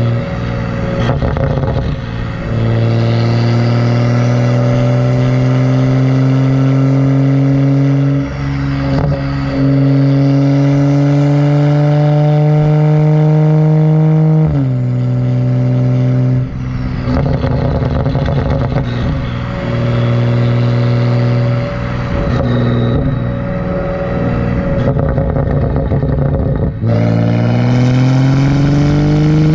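A 2011 BMW 135i's turbocharged N55 inline-six runs through a catless, muffler-deleted exhaust under load. Its pitch climbs slowly for about twelve seconds, then drops sharply about halfway through. It runs rougher for a while, then climbs again near the end.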